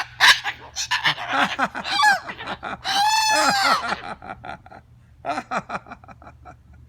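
Pet bird calling: a rapid string of short, pitch-bending calls, a longer arching call about three seconds in, then another quick run of short calls around five seconds in.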